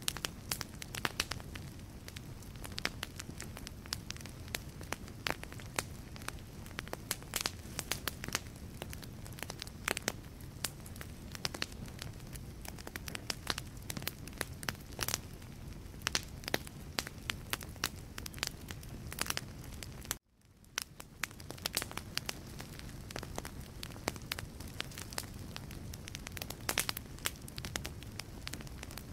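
Wood fire in a fireplace crackling steadily, with frequent sharp snaps and pops over a low rushing of flames. About 20 seconds in the sound cuts out abruptly for a moment, then fades back in.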